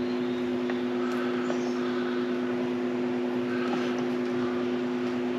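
A steady two-tone background hum, even in level throughout, with a few faint small ticks over it.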